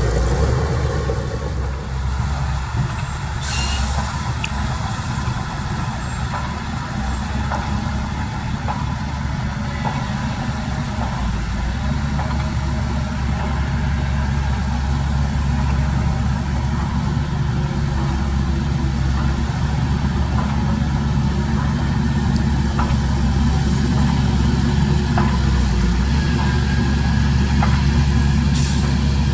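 Heavy diesel engines of earthmoving machines and dump trucks running steadily, slowly growing louder. Two short air-brake hisses, one a few seconds in and one near the end.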